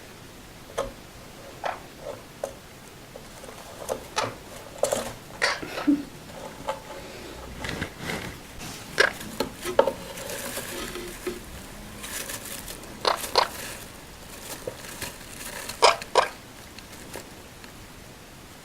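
Kitchen utensils and dishes being handled: scattered clinks, taps and knocks at irregular intervals, a few louder strikes about halfway through and near the end.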